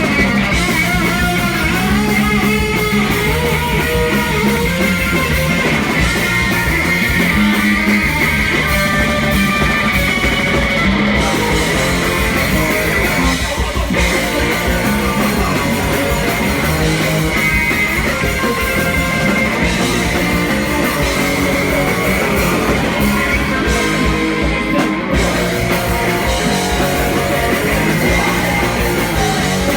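Punk rock band playing live and loud: electric guitars and drums, with singing.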